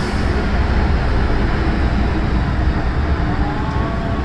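MTR M-Train electric multiple unit running on the Tsuen Wan Line, heard from on board: a steady, heavy low rumble of wheels on rail, with a faint rising whine near the end.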